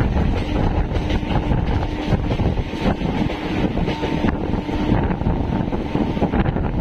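EMU local train running, heard from on board: a steady rumble of wheels on the track with wind on the microphone, and a faint steady hum running through it.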